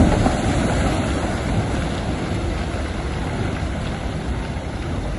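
Heavy diesel earthmoving machinery running steadily with a deep rumble, mixed with wind noise on the microphone; a brief knock right at the start.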